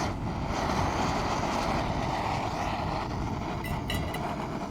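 Portable camping stove burner running with a steady hiss, with a few light clinks near the end.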